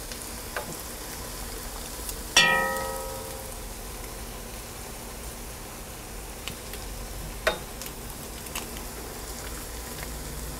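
Chopped onions and garlic sizzling gently in a hot enamelled cast-iron Dutch oven. A little over two seconds in comes a single sharp metal clink that rings for about a second, and a fainter click follows later.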